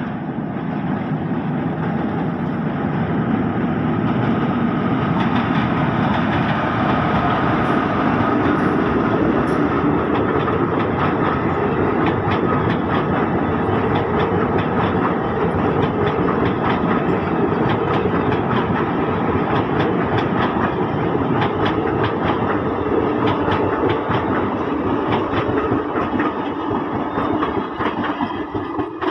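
Passenger express train's coaches rolling slowly past, wheels clicking over the rail joints in a steady run of clatter. It grows louder over the first few seconds, then holds.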